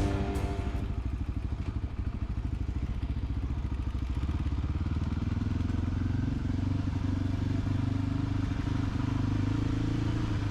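Voge 300GY dirt bike's single-cylinder engine running at a steady speed while riding, its note holding even throughout.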